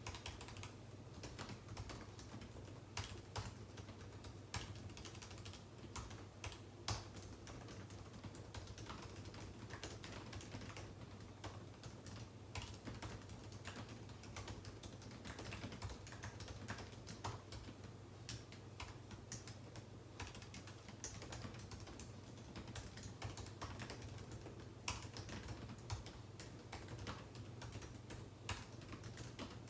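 Typing on a computer keyboard: a steady, irregular run of key clicks with an occasional louder keystroke.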